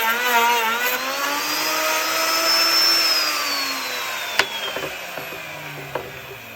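Electric wood router cutting a tenon in wood, its motor pitch wavering under load, then rising slightly and winding down from about three seconds in as it is switched off. Two sharp knocks sound as it spins down.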